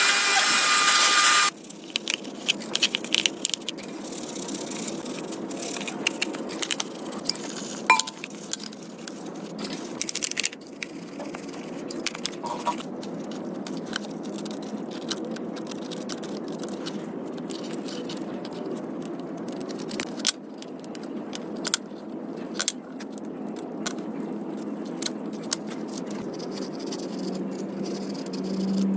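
A loud rasping tool noise cuts off about a second and a half in. Then comes scattered clinking, light tapping and scraping of small metal parts and tools over a low steady hum.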